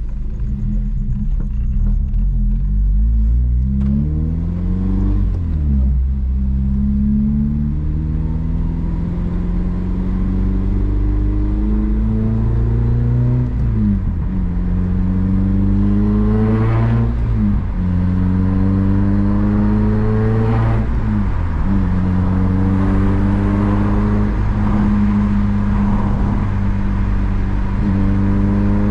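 Honda Civic Si engine under way, revs climbing and then dropping sharply at four gear changes, with steady cruising at an even pitch between.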